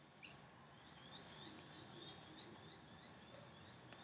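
Faint bird song: a quick run of short, high chirps, about five a second, starting about a second in, over quiet background hiss.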